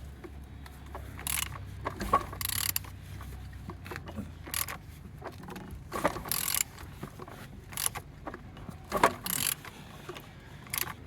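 Used engine being turned over by hand with a wrench: irregular clicks and clunks from the tool and the rotating engine internals. It turns freely with compression on every cylinder.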